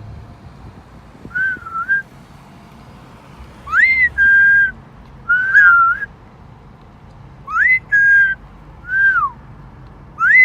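Yellow-naped Amazon parrot whistling: a string of about seven short whistles, several sweeping up sharply then holding, one arching down.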